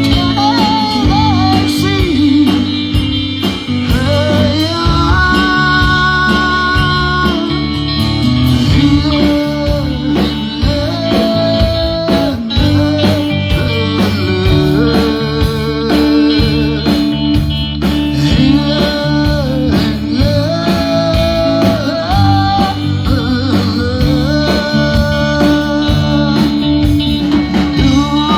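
Live band playing a song: guitar and bass with a singer carrying the melody.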